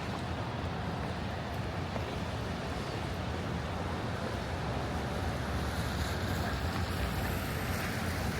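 Steady outdoor city noise: wind rushing on the microphone over a low traffic rumble, with a little more hiss in the last couple of seconds.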